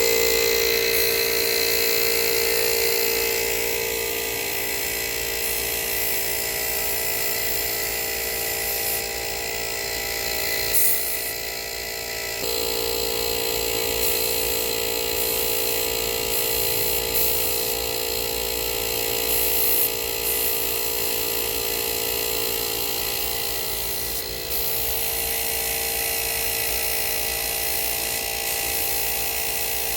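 Paint sprayer running as the truck is sprayed: a steady motor whine with an airy hiss over it, the whine's pitch shifting slightly a few times.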